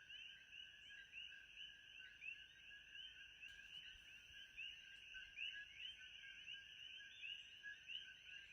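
Faint, continuous frog chorus: many overlapping short chirping calls repeating several times a second, with a steady high-pitched whine above them.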